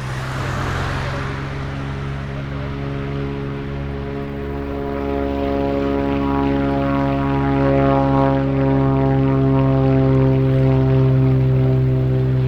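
Propeller-driven light aircraft's engine running steadily, growing louder as it comes closer, with a rush of noise in the first couple of seconds.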